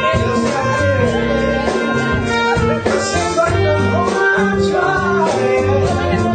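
Band music with a moving bass line, drums and guitar playing continuously.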